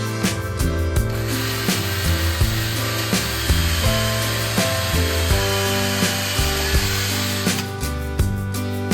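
Background music with a steady beat, and under it a power tool running on wood for about six seconds, starting just after a second in and stopping near the end.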